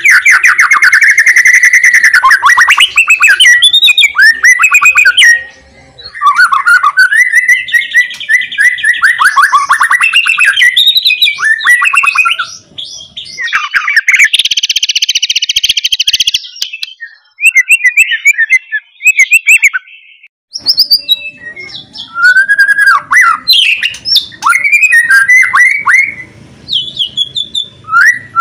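White-rumped shama (murai batu) singing loudly: a varied run of clear whistles, fast trills and quick rising and falling notes, mixed with harsh rattling 'kretekan' calls, one long buzzy rattle about halfway through.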